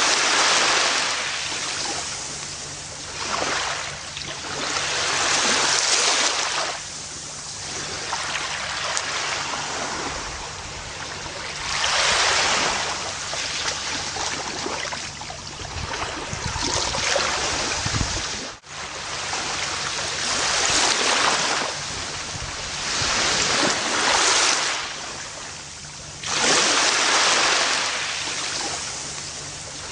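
Gentle ocean waves breaking and washing up a beach, a swell of surf every three to six seconds, with one sudden brief dip in the sound a little after the middle.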